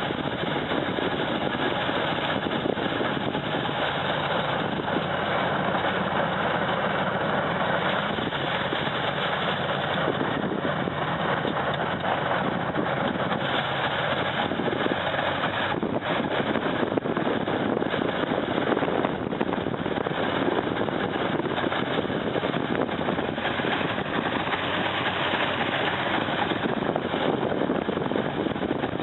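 Heavy snow-removal machine's engine running steadily, with a dense, even rushing noise throughout.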